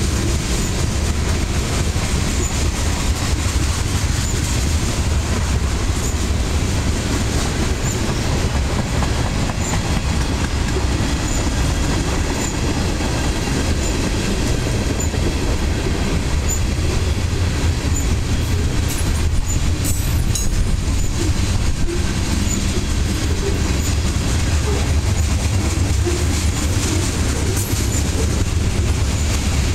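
Freight train's covered hopper cars rolling past at close range: a steady, loud rumble of steel wheels on rail.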